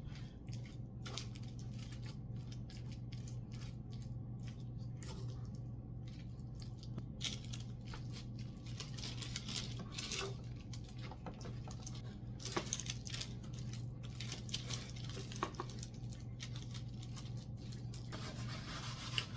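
Instant carbonara noodles being stirred with their sauce: a utensil scraping and clicking against the container, with wet squishing, in irregular spells over a steady low hum.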